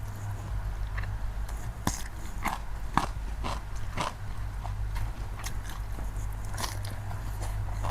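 A person chewing and biting crunchy food close to the microphone, with irregular sharp crunches, over a steady low hum.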